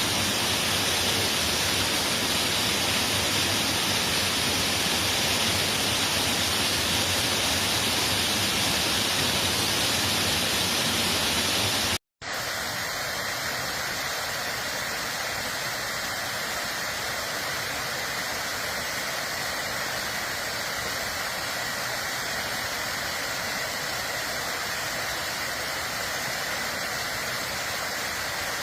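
Steady rushing water, in two recordings spliced together: a fuller, louder one that cuts off abruptly about twelve seconds in, then after a brief dropout a lighter, hissier one.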